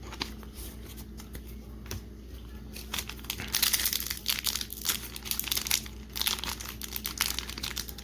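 Foil wrapper of a Pokémon booster pack crinkling as it is handled and opened. Only faint small clicks for the first three seconds, then loud, continuous crinkling from about three and a half seconds in.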